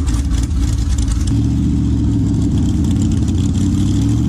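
Twin-ProCharger-supercharged 427 LS7 V8 in a motorcycle running loud, its note uneven at first and then settling into a steadier, even sound about a second and a half in.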